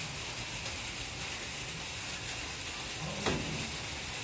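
Steady light rain falling in a fine, even hiss, with one brief louder sound about three seconds in.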